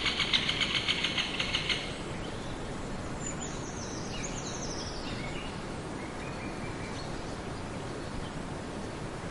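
An insect's rapid pulsing buzz that stops about two seconds in, followed by a few short, quick bird chirps over steady outdoor background noise.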